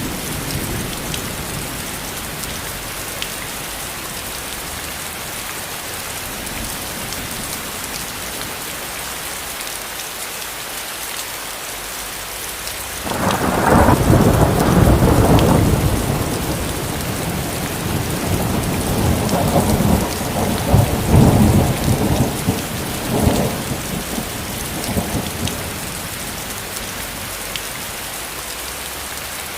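Steady heavy rain hissing, with a roll of thunder that breaks suddenly about halfway through, rumbles for several seconds and dies away in waves.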